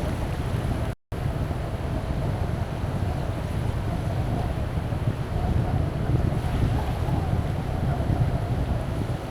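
Strong wind buffeting the microphone as a deep, steady rumble, over the hiss of surf on the beach. The sound drops out completely for a split second about a second in.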